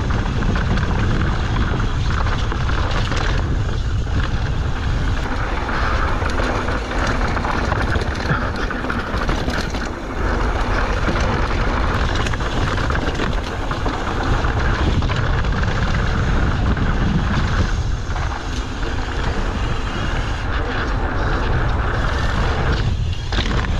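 Strong wind rushing steadily over the microphone of a mountain bike riding down a dirt trail, with scattered short rattles from the ride.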